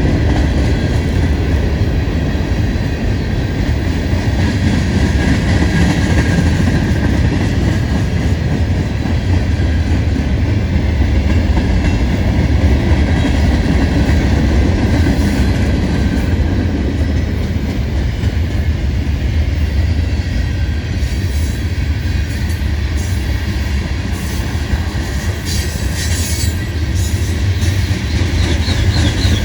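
Long freight train rolling past: a steady rumble of wheels on rail with clickety-clack, and a wavering wheel squeal near the end.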